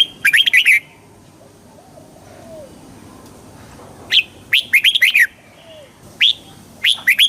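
Red-whiskered bulbul singing: three short phrases of quick, bright whistled notes that glide up and down, one near the start, one about four seconds in and one near the end. Fainter, lower curved calls sound in the gaps between the phrases.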